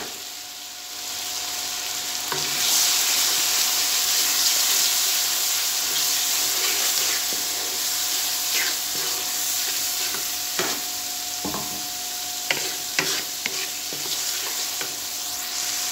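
Ground spices sizzling in hot oil with fried onions, ginger and garlic in a metal wok, stirred with a wooden spoon that scrapes and knocks against the pan: the masala being fried. The sizzle swells a couple of seconds in, and the spoon knocks several times in the second half.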